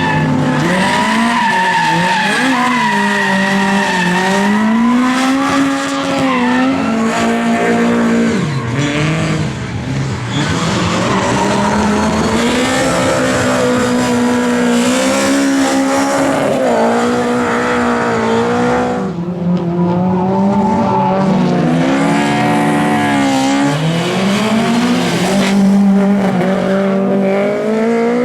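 Lada race car engines running hard on track, the pitch repeatedly climbing under acceleration and dropping off through gear changes and braking.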